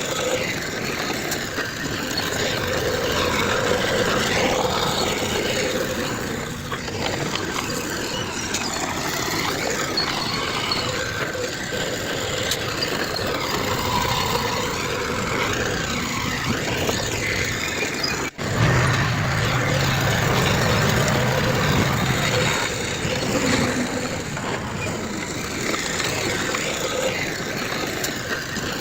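Heavy diesel earthmoving machinery running, the engines of a bulldozer and dump trucks working. The sound drops out for an instant about two-thirds of the way through, and a deeper engine drone is louder after the break.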